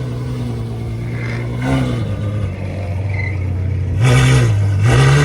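Car engine idling with throttle blips: a short rev about two seconds in, then two louder revs about a second apart near the end.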